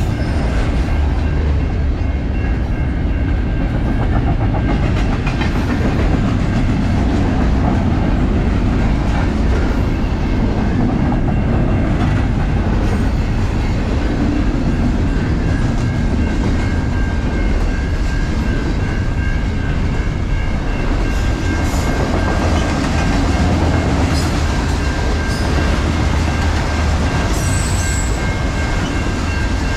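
Train rolling past close by: a steady, unbroken rumble of wheels on the rail with clickety-clack.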